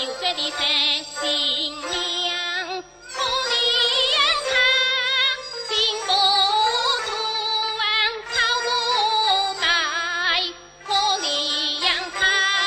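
Teochew opera singing: a high voice sings phrases with heavy, wavering vibrato, with short breaks between phrases, over instrumental accompaniment.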